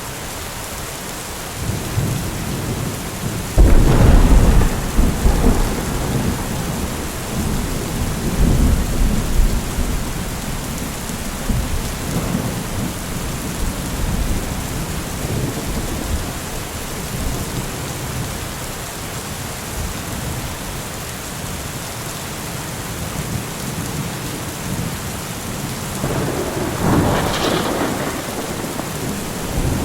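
Steady rain falling, with thunder: a sudden loud clap about three and a half seconds in that rumbles on for several seconds, and a second, weaker rumble near the end.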